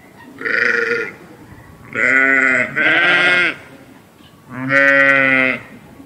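Sheep bleating four times. The middle two bleats come back to back, and the last one is the longest.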